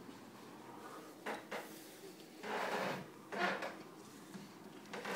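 A handful of short, irregular scraping and rubbing noises, about five in all, over a faint steady rumble.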